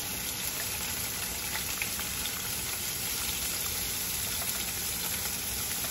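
Floured cube steak shallow-frying in hot oil in a cast-iron skillet: a steady sizzle with faint scattered pops.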